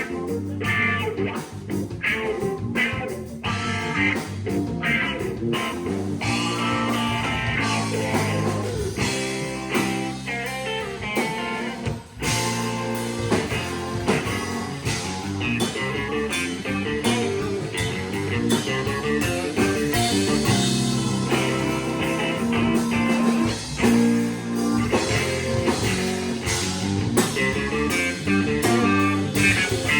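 Blues-rock band music led by guitar, with a steady drum beat under dense, changing guitar notes and little or no singing.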